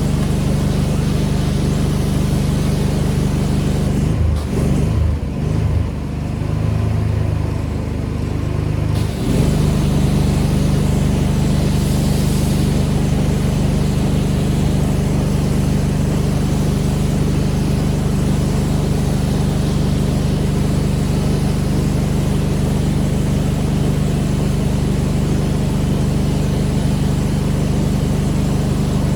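Pressure washer engine and pump running steadily under the hiss of the spray. About four seconds in the spray stops and the engine's pitch wavers for several seconds, then the spray starts again and the engine settles back to its steady note.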